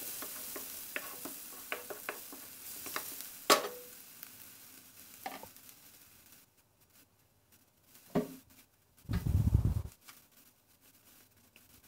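Onions and ginger-garlic paste sizzling in hot oil in a frying pan, with a wooden spatula stirring and scraping and one sharp knock against the pan; the sizzle fades away about halfway through. A short dull thump near the end.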